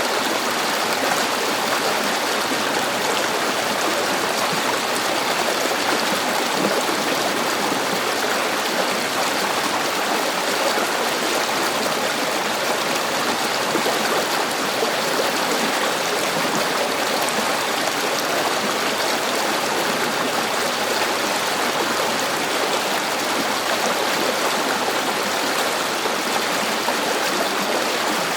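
River water flowing steadily over stones, a continuous even rush with fine gurgling detail.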